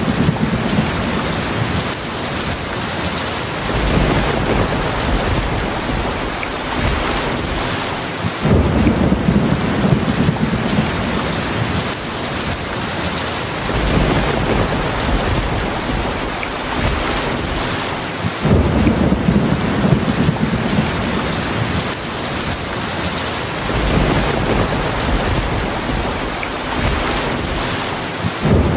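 Heavy rain falling in a steady hiss, with thunder rumbling low underneath; a fresh rumble sets in about every five seconds and dies away.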